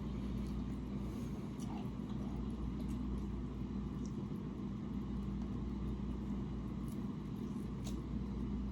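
Steady low background hum, with a few faint clicks from eating between bites.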